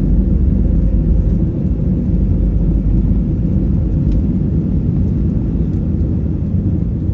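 Steady low rumble inside an Airbus A320-200 cabin: the engines and airflow heard from a window seat behind the wing.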